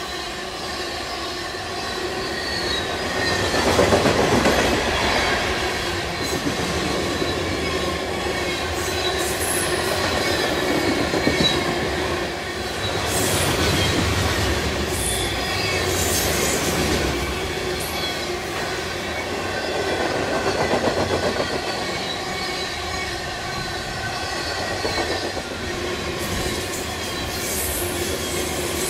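A train's cars rolling past close by in a steady, continuous run, with high wheel squeal over the rolling noise.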